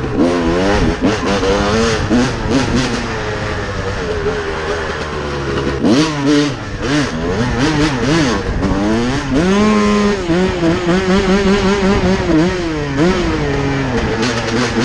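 Dirt bike engine revving up and down again and again, its pitch rising and falling, with a steadier stretch about two-thirds of the way through.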